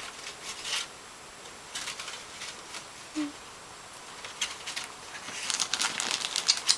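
Gift wrapping crinkling and rustling in scattered bursts, growing busier and louder for the last second or so.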